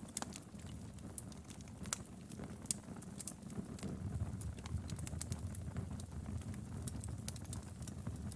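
Wood fire crackling, with irregular sharp pops and snaps over a low steady rumble of the flames; a couple of louder pops about two to three seconds in.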